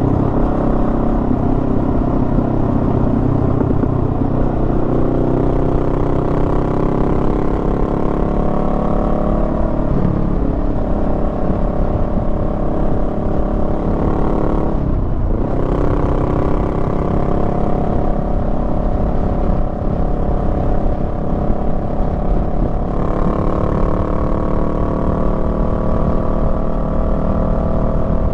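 Honda Rebel 500's parallel-twin engine under way, its pitch climbing as it pulls, then dropping sharply about ten and fifteen seconds in at gear changes before climbing again, with a further jump in pitch near the end. Steady wind noise runs underneath.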